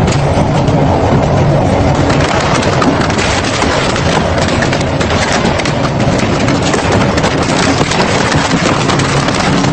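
Industrial double-shaft shredder tearing through scrap: a steady, dense run of cracking and crunching over the low hum of its drive.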